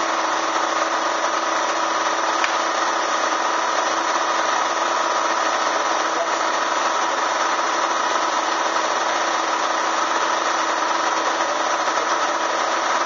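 Bee vacuum running steadily: a continuous, even motor noise with no change in speed.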